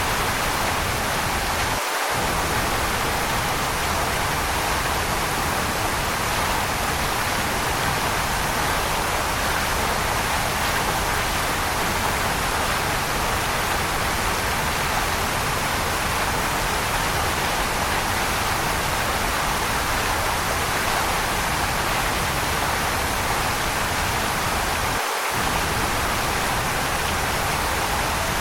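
Waterfall: a steady, even rush of falling water. Twice the low rumble drops out for a split second.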